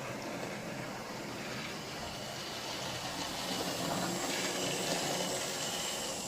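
A model Class 55 Deltic's DCC sound decoder playing a diesel engine sound through the locomotive's small onboard speaker: a steady, hissy engine noise that grows a little louder about four seconds in. It is generic diesel noise, not a faithful Deltic sound.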